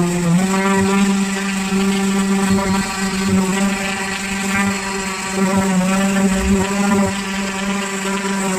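Electric power sander running steadily as it sands the boat's fibreglass transom. There is a brief dip in pitch at the very start, then a steady hum.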